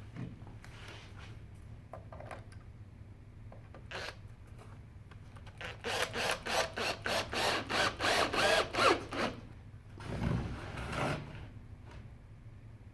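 A hand tool scraping back and forth on wood in a quick, even run of about a dozen strokes, about four a second, starting about six seconds in and stopping just after nine. A short, lower rumble or shuffle follows about a second later, with a few light knocks scattered around.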